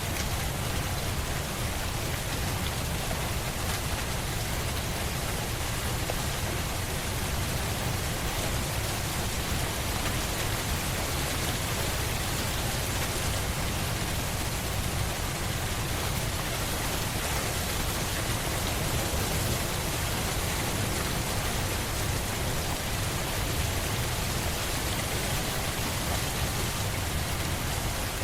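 Steady rain falling on a surface, an even unbroken hiss with a deep low rumble underneath.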